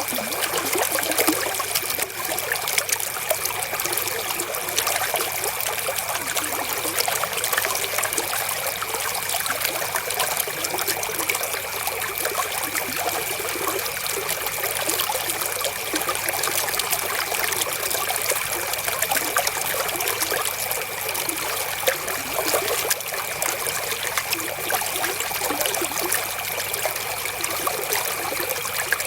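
Flowing river water, a steady trickle and babble without pause, with a faint steady high tone underneath.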